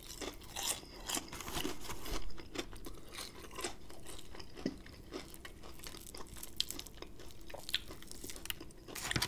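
Chewing and biting into crispy Popeyes fried chicken: a steady run of crackling crunches from the breading, with a sharper, louder crunch near the end.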